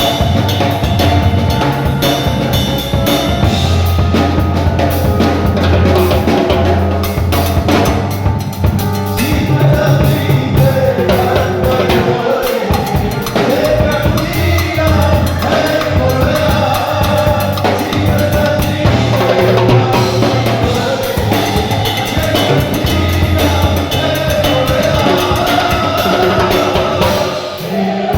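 Church worship band playing with a steady drum kit beat and bass, with voices singing a melody over it.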